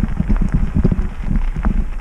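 Bicycle rattling and knocking as it rolls over rough, bumpy ground, with wind rumbling on the microphone.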